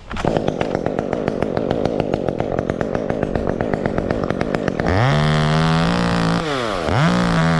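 Two-stroke chainsaw idling with a rapid, even chugging, then revved up and held at full speed twice, about five seconds in and again near the end, dropping back to idle between.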